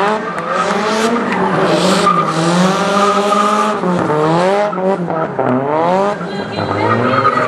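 Car engine revving in repeated rising sweeps while its tyres squeal and skid, as in drifting or doing donuts.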